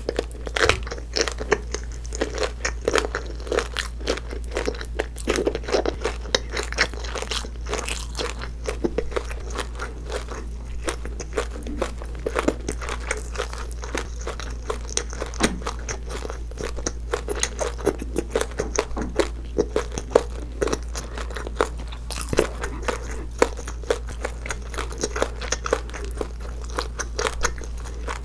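Close-miked chewing of a butter shrimp eaten whole with its shell: wet crunching with crisp clicks that go on steadily, over a faint low hum.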